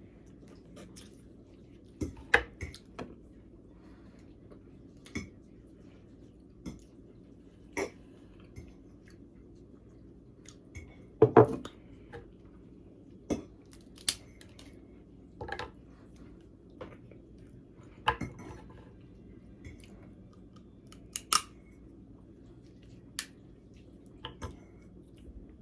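Blue crab being eaten: irregular sharp cracks and clicks of shell being broken open, with chewing, the loudest crack about eleven seconds in.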